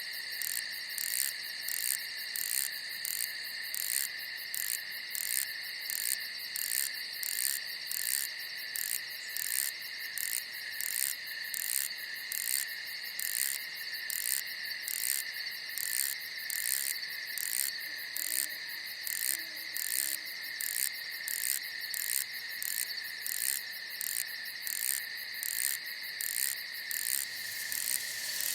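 Crickets chirping at night: a steady high trill with a second, pulsing chirp repeating about twice a second.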